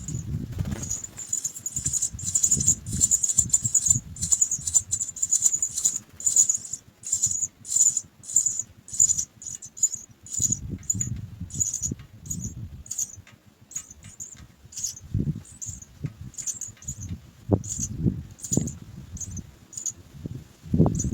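House sparrow nestlings' high-pitched begging cheeps, repeated two to three times a second, over an intermittent low rumble.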